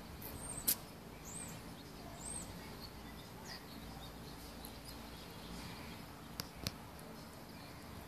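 A bird gives three short, high, arching chirps in the first few seconds. A sharp click comes just under a second in, and two more come near the end.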